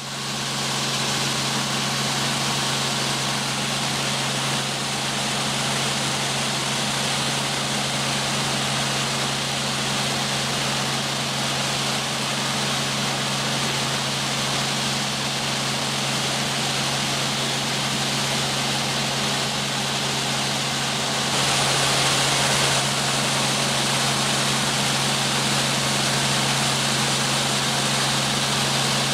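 Helicopter running steadily, an even engine-and-rotor hum with a constant rushing hiss over it, getting a little louder about twenty seconds in.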